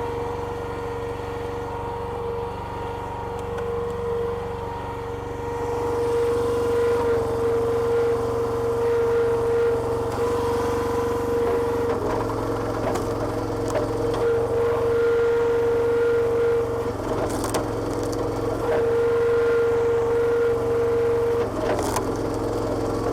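Petrol engine of a homemade hydraulic log splitter running steadily with a strong, steady whine over the engine hum; the sound changes several times as the load on the hydraulics shifts, with short bursts of wood cracking and splintering in the later part.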